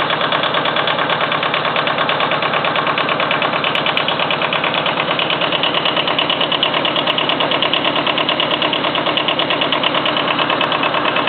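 Kubota engine of a homemade tractor running steadily, with a rapid, even pulse.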